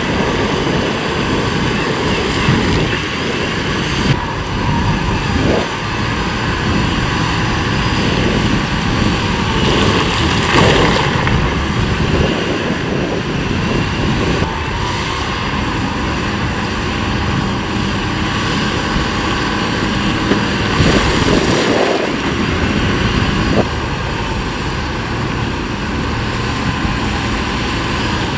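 Heavy earthmoving machinery's diesel engine running steadily, with a few knocks from rock being handled.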